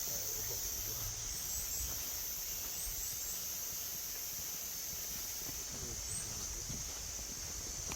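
Steady high-pitched drone of insects in summer forest, with short high chirps in quick groups of three. A low rumble runs underneath.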